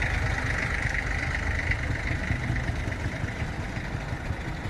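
Engine idling steadily with a low rumble, easing slightly toward the end.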